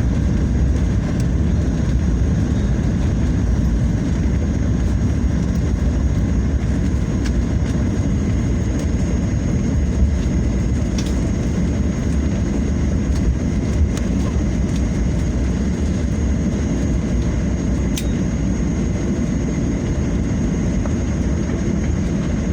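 Steady low rumble of an airliner's jet engines and airflow heard inside the passenger cabin, just after touchdown, with a faint steady whine and a few faint clicks.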